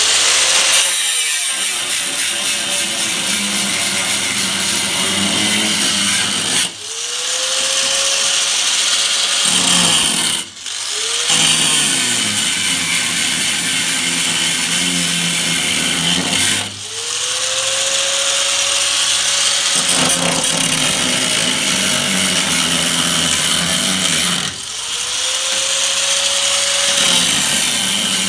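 A power cutting tool cutting away rusted car-body sheet metal on a rear quarter panel, a loud, steady cutting noise. It eases off briefly four times, and each time the tool's pitch rises back up as it picks up speed.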